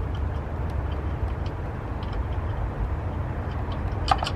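Steady low rumble, with a few sharp metallic clicks near the end from lug bolts and the wheel-changing tools being handled during a tire change.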